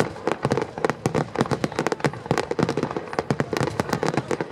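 Aerial firework shells bursting in a dense, continuous volley: many sharp bangs a second, overlapping with no let-up.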